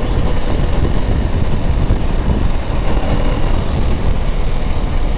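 KTM Duke 390's single-cylinder engine running on the move, under a loud, uneven low rumble.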